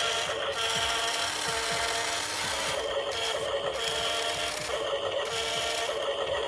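Small electric motors of a radio-controlled model whining steadily at several pitches, with a gritty rasping noise and brief dips every second or two.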